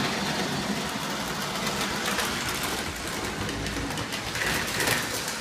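Lionel O-gauge toy train running on tubular O-27 track: a steady motor hum and wheel rumble from the locomotive and cars rolling along the rails.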